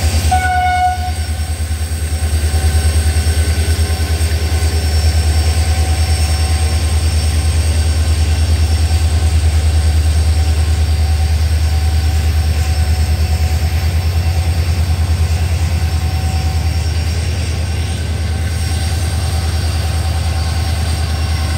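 Slow-moving diesel-hauled goods train, with a heavy diesel engine throbbing in a steady low rumble as the loaded wagons roll past. A brief high squeal comes about half a second in.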